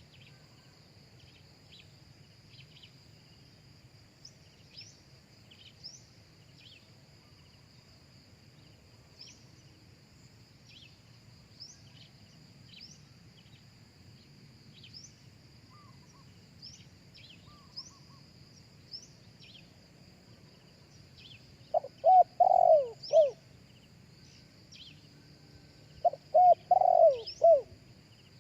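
Spotted dove cooing: two loud phrases of several coos, one about 22 seconds in and one about 26 seconds in. A faint steady high drone and small chirps of other birds run underneath.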